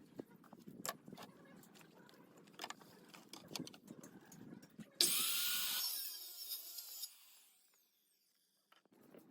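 Scattered knocks and taps of woodwork, then about five seconds in a power tool bursts into a loud hissing run for about two seconds, its pitch falling as it winds down.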